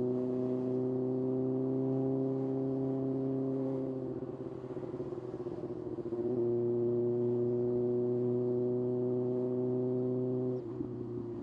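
Kawasaki ZX-6R's inline-four engine running at a steady pitch under light throttle. It eases off for about two seconds midway and comes back on, then the throttle closes near the end and the note drops and falls away.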